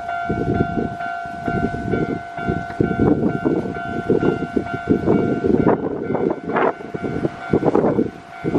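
Japanese level-crossing alarm ringing with a steady electronic tone, which stops a little over halfway through, while a Keio Line train passes over the crossing with loud, irregular wheel clatter over the rail joints.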